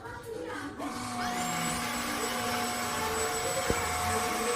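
Cordless wet-and-dry vacuum mop's motor spinning up about a second in with a rising whine, then running steadily with a high whine over a rush of suction. A single sharp click after about three and a half seconds.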